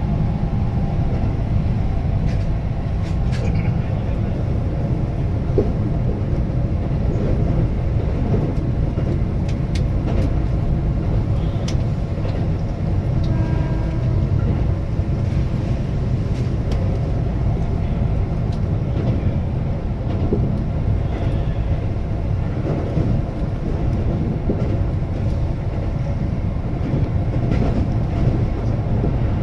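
Keihan limited express electric train running, heard from inside the leading car: a steady low rumble of wheels on rail, with scattered sharp clicks and knocks throughout.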